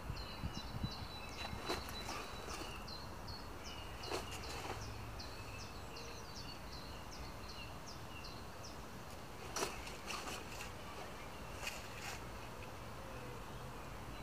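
A bird singing a long run of short, high, repeated notes, about three a second, that stops about nine seconds in. There are a few brief soft knocks or rustles, the sharpest just under ten seconds in.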